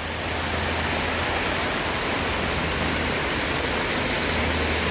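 Heavy rain falling steadily in a thunderstorm, a constant even hiss. A low hum builds near the end.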